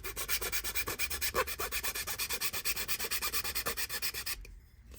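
Hand sanding the edge of a laser-cut wooden kit part with quick back-and-forth strokes, about ten a second, that stop near the end.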